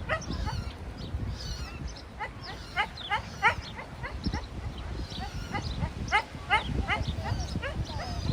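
Goslings peeping: many short, rising peeps in quick runs, over a low rumble of wind on the microphone.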